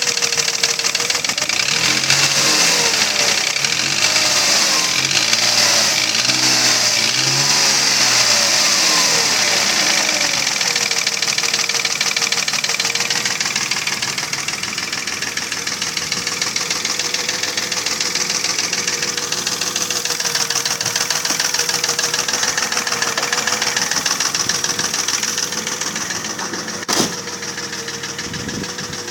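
Mercedes-Benz ML320's M112 3.2-litre V6 running with a knock, revved up and down several times in the first ten seconds and then settling to a steady idle; a single sharp click near the end. The knock is piston slap from scuffed cylinder bores after 300,000 km, as the owner diagnoses it: pistons rattling in the bores.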